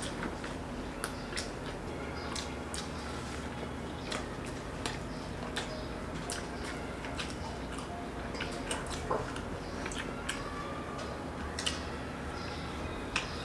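Mouth sounds of two people eating dosa and idli by hand: scattered soft clicks and smacks of chewing and lips, irregularly spaced, over a steady low background hum.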